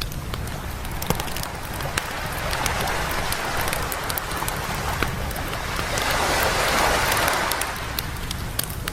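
Bonfire crackling with sharp pops, over waves washing in on a beach; a wave swells up, loudest about six to seven seconds in, then draws back.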